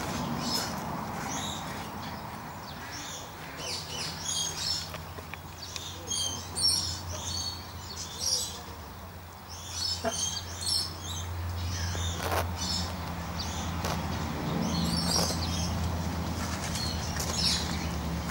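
Small birds chirping in short, high bursts again and again, over a low steady hum. A single sharp click comes about twelve seconds in.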